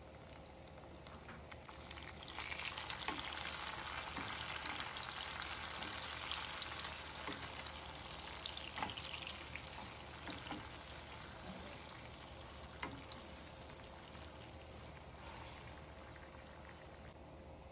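Sliced tomatoes sizzling in hot oil with fried onions in a frying pan as they are stirred with a wooden spatula. The sizzle swells about two seconds in and slowly dies down, with a few light knocks of the spatula against the pan.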